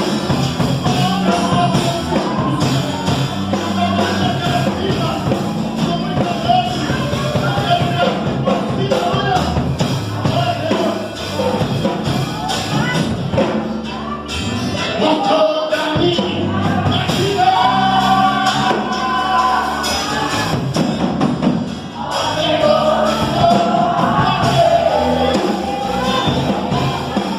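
Gospel hymn: a male singer's voice over full band accompaniment.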